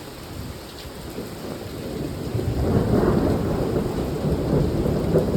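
Thunder rumbling after a lightning strike, building about two seconds in and staying loud, over steady rain.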